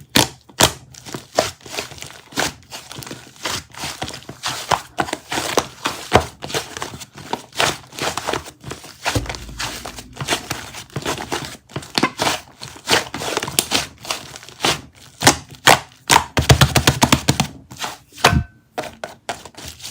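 Rapid, irregular small taps and clicks with some crinkling, as of objects being handled and tapped close to the microphone.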